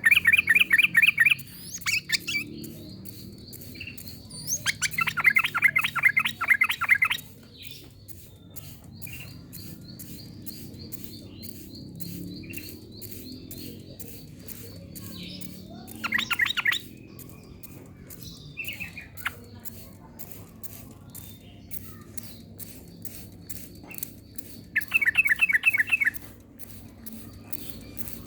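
Yellow-vented bulbul (trucukan) singing in four short bursts of rapid chattering notes, a few seconds apart, over a faint fast ticking and a thin high-pitched hum.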